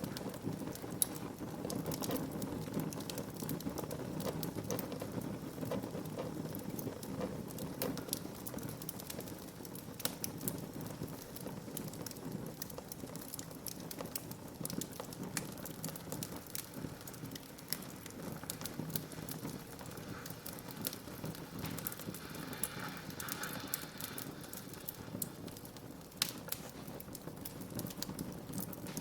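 Wood fire crackling in a fireplace: a steady low rush of burning with frequent sharp pops and snaps scattered throughout.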